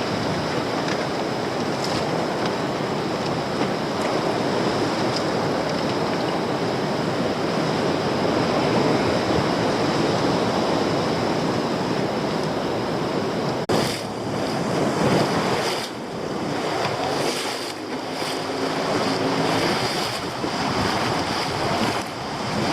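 Sea surf washing and breaking against rocks, with wind buffeting the microphone.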